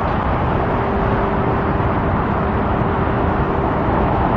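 Steady noise of road traffic, with a faint steady hum running through it.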